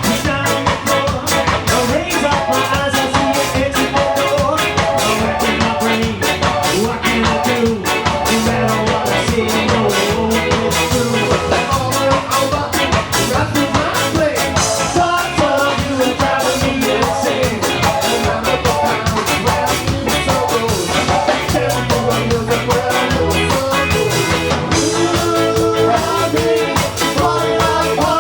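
A ska band playing live, with a steady, driving beat.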